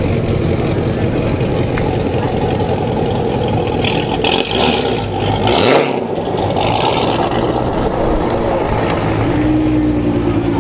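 Car engines running loudly, with a louder rush of noise about four seconds in that lasts around two seconds, and a steady engine note near the end.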